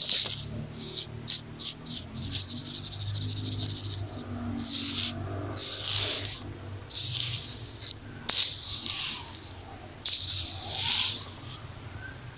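A hair tie brushed and scratched directly across a microphone: a series of separate hissing rubbing strokes, with a fast run of fine scratching clicks about two seconds in.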